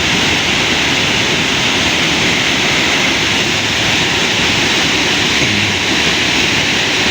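Waterfall pouring steadily onto rocks: an even, loud rush of falling water.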